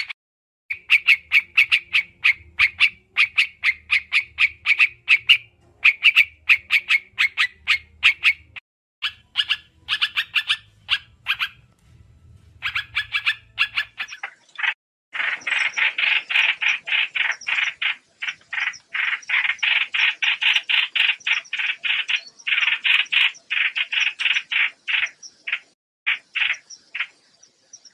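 White-eye calls from a bird-trapping lure recording: runs of rapid, evenly repeated short chattering notes lasting a few seconds each, broken by short gaps. About halfway through the calls become denser and louder in one long run before thinning out near the end.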